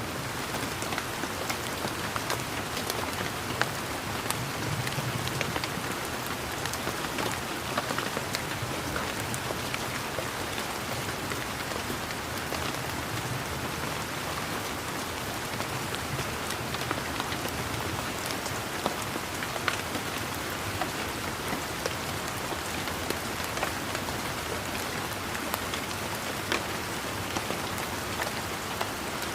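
Steady rain falling on leaves and ground, a continuous hiss with many separate drop ticks scattered through it.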